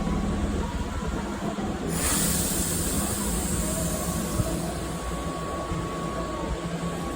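Keihan 2200 series electric train standing at the platform with a steady low hum. About two seconds in, a loud compressed-air hiss starts suddenly and carries on, as happens when the train readies to depart.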